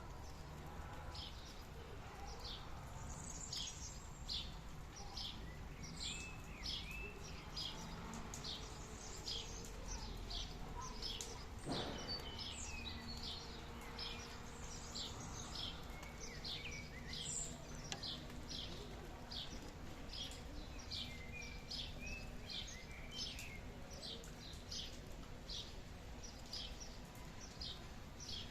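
Birds calling over a steady low background hiss: one short high chirp repeats about twice a second throughout, with other bird notes in between.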